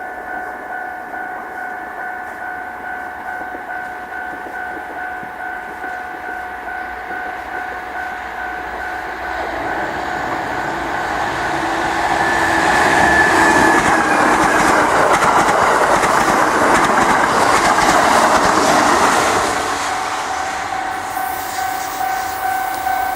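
A Japanese level-crossing alarm bell rings steadily with an even pulse. A Kintetsu train approaches from about nine seconds in and passes loudly with rail clatter for around eight seconds, then fades while the bell keeps ringing.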